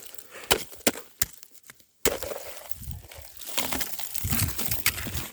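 Sharp cracks and clicks of ice and fishing gear being handled at an ice-fishing hole. They cut out briefly about two seconds in, then give way to a steady hiss with more crackling.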